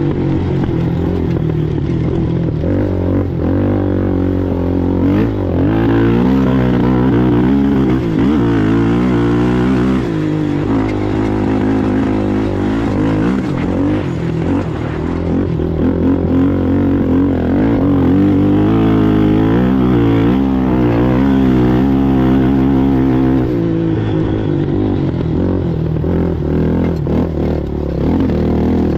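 A racing ATV's engine running hard under constantly changing throttle. Its pitch rises and falls over and over as the rider accelerates, lifts off and revs again.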